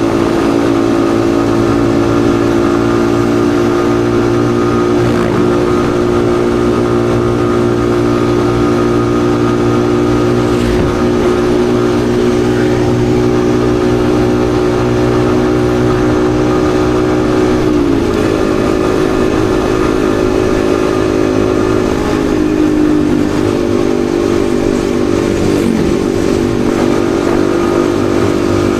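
Yamaha XSR155's single-cylinder engine running at a steady cruising speed under way, its pitch holding steady with a brief dip about two-thirds of the way through and some wavering shortly after.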